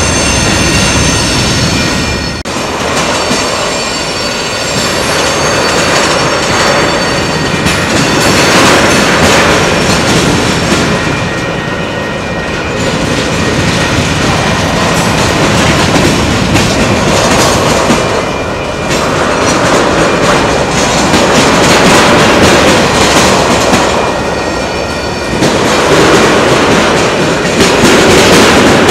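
Freight train's tank cars and covered hopper rolling slowly past, steel wheels clacking and rumbling on the rails. A thin wheel squeal sounds in the first couple of seconds.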